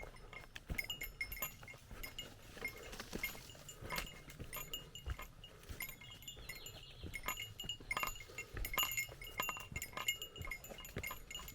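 A small metal bell, a hiker's bear bell, jingling irregularly with each movement, with scattered clicks and knocks among the rings.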